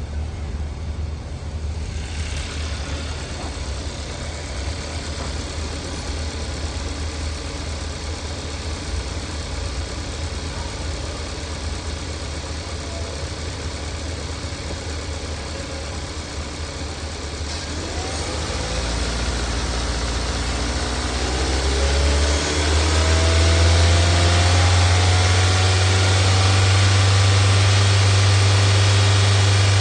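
2016 Hyundai Accent 1.6-litre four-cylinder engine idling steadily, then revved up with a rising pitch and held at a higher, louder speed for the last several seconds.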